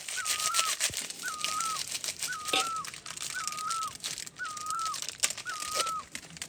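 A bird repeating one short whistled call about once a second, each note rising, holding and then falling away, over scattered crackling clicks.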